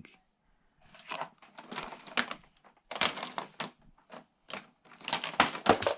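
Plastic toy monster truck and toy ramp being handled, a run of irregular clattering knocks and scrapes.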